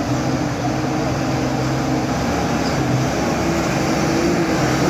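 Heavy diesel vehicle engine running steadily with a low, even pitch.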